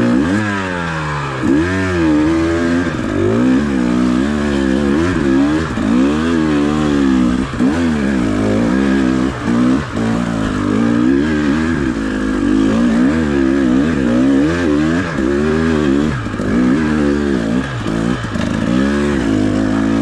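Enduro dirt bike engine revving up and down again and again, about once a second, as the throttle is worked through rough, churned-up trail.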